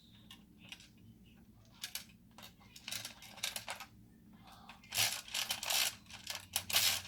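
Plastic toy parts clicking and rattling as they are handled, in irregular short bursts that grow busier and louder about five seconds in.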